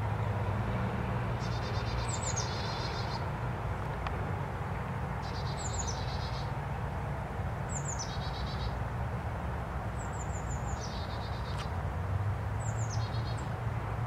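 A songbird repeating a short, high song five times, each phrase a few quick falling notes ending in a buzzy trill, over a steady low background rumble.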